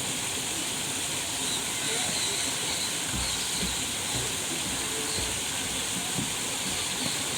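Steady outdoor hiss with faint, indistinct voices in the background.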